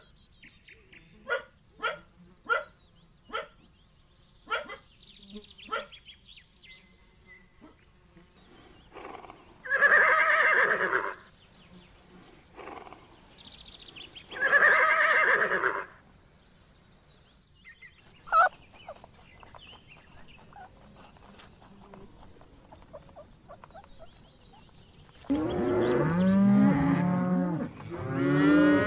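Farm animals calling: a run of short, sharp calls, then two long calls about ten and fifteen seconds in, and a louder stretch of calls that bend in pitch near the end.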